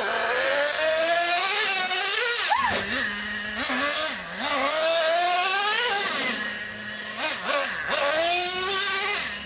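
Small nitro engine of a radio-controlled truck revving up and down repeatedly under the throttle, dropping twice to a steady lower tone, about 3 and 8 seconds in, before climbing again.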